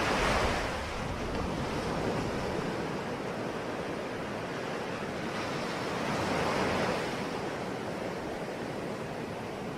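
Ocean waves breaking and washing in a steady surf hiss, swelling loudest right at the start and again about six seconds in.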